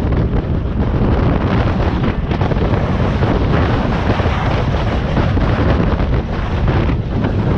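Wind buffeting the microphone aboard a jet boat under way, over a steady low rumble from the boat and rushing water.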